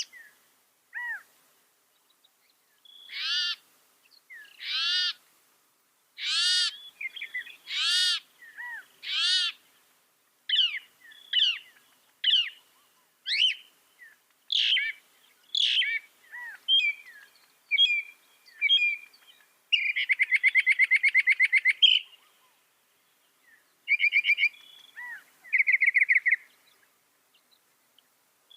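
Mockingbird singing a long, varied song that repeats each phrase several times before switching: five arching whistled notes about a second and a half apart, then quicker chirps and chips, and a fast rattling trill about twenty seconds in.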